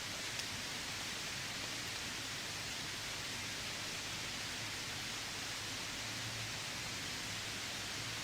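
Steady heavy rain falling, an even hiss that does not let up, with a faint tick about half a second in.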